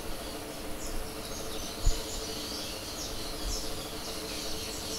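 Background room sound: a steady low hum with faint, irregular high chirps of small birds calling, and two soft low thumps, about two and three and a half seconds in.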